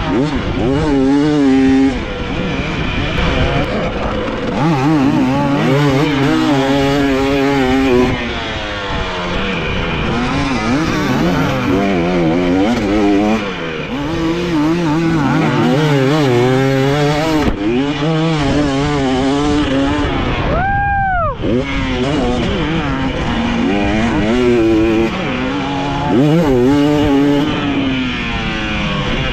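Motocross dirt bike engine being ridden hard, its pitch rising and falling over and over as the throttle opens and closes through the gears. About two-thirds of the way through the throttle is shut off briefly, so the engine note drops low and then picks up again.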